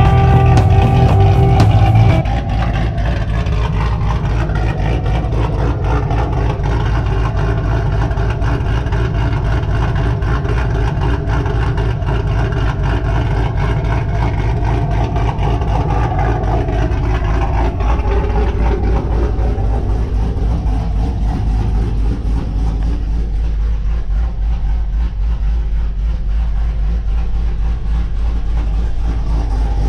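Background music with guitar and drums for about the first two seconds, then a Camaro SS's 6.2-litre L99 V8 with a freshly installed Texas Speed stage 1 VVT camshaft idling steadily through its exhaust. The engine's pitch dips a little about 17 seconds in.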